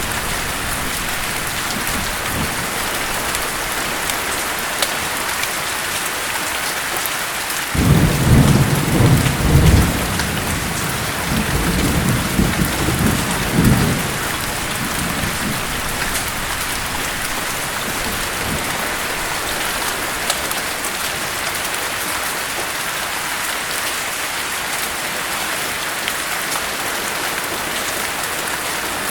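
Steady rain falling, with a low rumble of thunder that breaks in suddenly about eight seconds in and lasts about six seconds in two swells.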